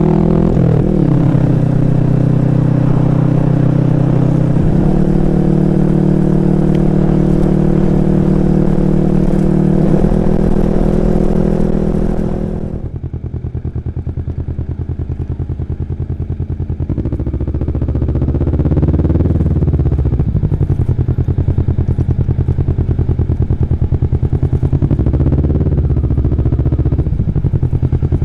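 Kawasaki Vulcan S's 649 cc parallel-twin motorcycle engine under way, holding steady revs with two quick changes in pitch in the first five seconds. About thirteen seconds in the throttle closes and the engine drops to a low, pulsing run with a few gentle rises in pitch.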